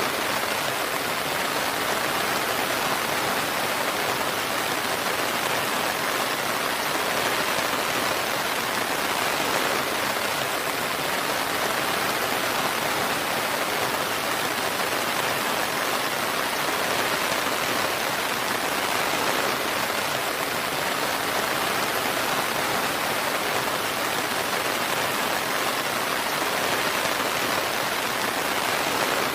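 Steady rain falling, an even, unbroken hiss of many drops with no distinct patters or thunder.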